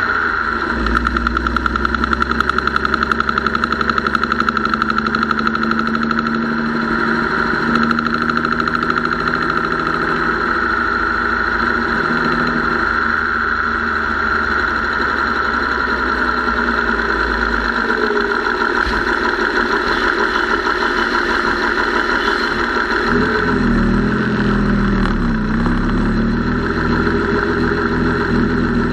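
Gasoline engine running with a rapid, even ticking noise from the top end, which the owner first suspected was the lifters and rockers or the mechanical fuel pump and later put down to a tired or weak valve spring.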